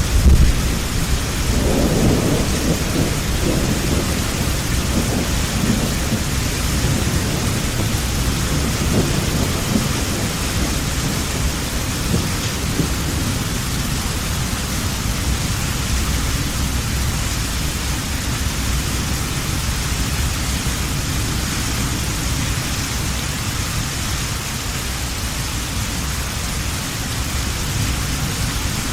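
Heavy rain falling steadily in a thunderstorm, with a deep thunder rumble at the start that rolls on and fades away over the first ten seconds or so, leaving the steady rain.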